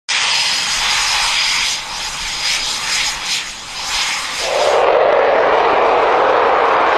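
Aircraft engine running: a loud, steady rush of turbine noise with a faint high whine. About four and a half seconds in it changes abruptly to a lower, duller rush.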